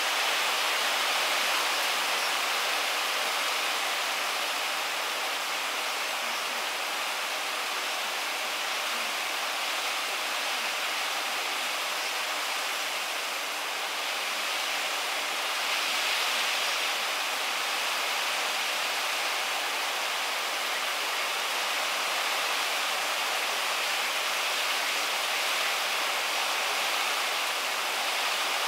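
Heavy typhoon rain pouring down in a dense, steady hiss, swelling slightly about halfway through.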